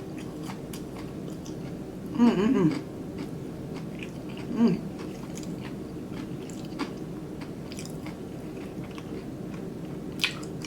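Close-up chewing and mouth clicks of someone eating a fried chicken sandwich, with a short hummed 'mmm' of enjoyment about two seconds in and a briefer one near the middle, over a steady low hum.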